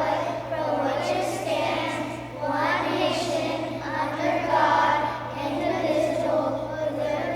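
A group of children reciting the Pledge of Allegiance in unison, their many voices overlapping in a chant-like chorus, with a steady low electrical hum underneath.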